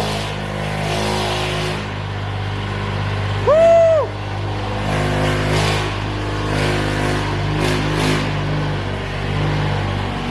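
Sports car engine running at a fast idle after a cold start, with a few short throttle blips. A loud rising-and-falling whoop about three and a half seconds in.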